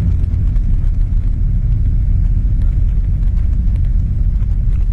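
Slipstream Genesis ultralight on landing approach: the steady low rumble of its Rotax 912-series engine and three-blade propeller.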